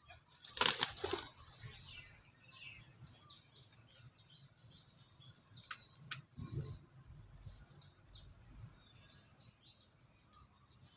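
A burst of bird wings flapping about half a second in as birds take off, followed by scattered faint bird chirps, a couple of sharp clicks and a soft low thump a little past the middle.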